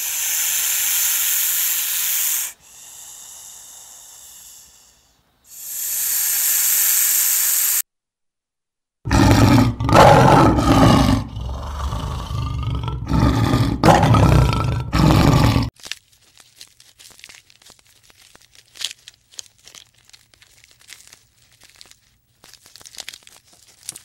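A lion roaring in a run of loud, deep calls for about six seconds in the middle, the loudest part. Before it comes a steady hiss, with a quieter stretch partway, that cuts off into a moment of silence. After it come faint scattered crackles.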